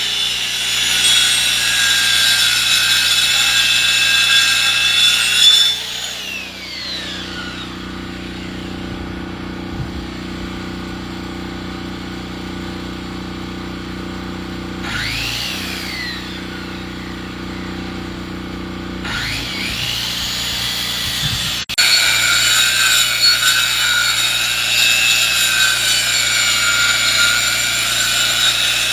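Sawmill blade cutting through a log over a steady running engine. About six seconds in the cutting noise drops away, leaving the lower engine hum for about fifteen seconds with a falling whine or two, and then the cut starts again.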